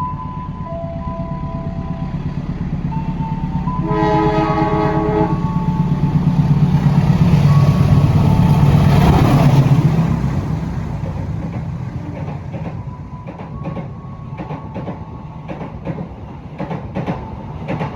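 A train passing: one horn blast of several tones about four seconds in, lasting just over a second, over a steady low rumble that grows loudest around the middle. After that it eases off, and the wheels clatter over the rail joints in rapid clicks near the end.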